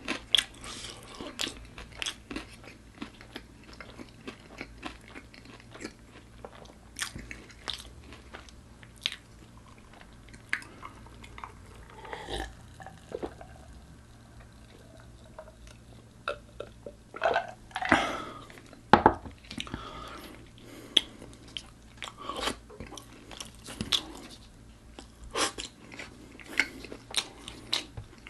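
Close-miked eating sounds: crunchy bites into crispy coated food and steady chewing, with irregular crackles throughout and a louder flurry of crunching a little past the middle.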